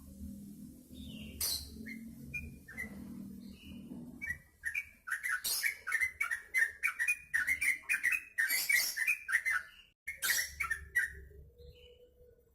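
Yellow-vented bulbul singing: scattered short whistled notes, then a fast, bubbly run of chirps through the middle, before it falls back to a few single notes near the end.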